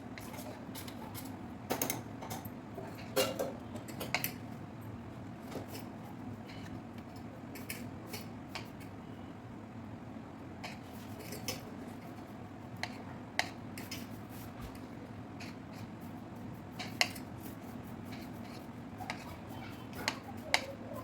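Kitchen utensils clinking and knocking at irregular intervals, over a steady low hum.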